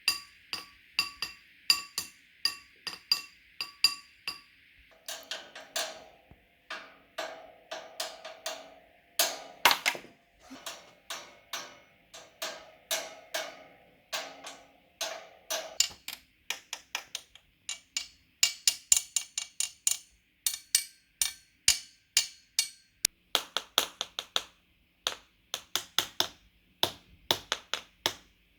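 Objects struck one after another in a steady rhythm, found-sound percussion of sharp taps and knocks. The ringing pitch of the hits changes every several seconds: high at first, then a lower, hollower knock, then brighter taps near the end.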